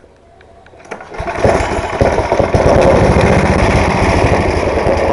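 10 hp snowblower engine started with no choke, catching about a second in and then running loudly with a fast, even firing beat. The engine is one that will not stay running on half or no choke.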